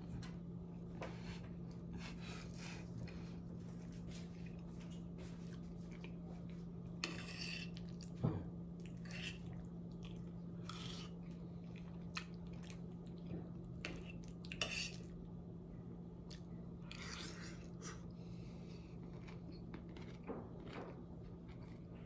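Someone eating: cutlery clinking and scraping on a dish, with chewing and mouth sounds, in short scattered bursts over a steady low hum.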